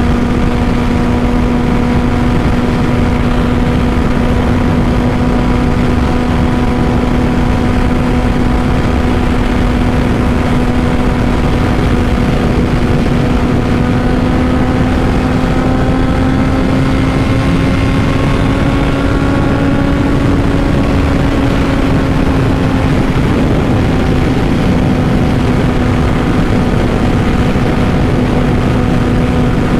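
2005 Honda CBR600RR inline-four engine through a Two Brothers full exhaust, running at steady cruising revs while riding, over steady wind noise. The engine note climbs slightly and eases back about two-thirds of the way through.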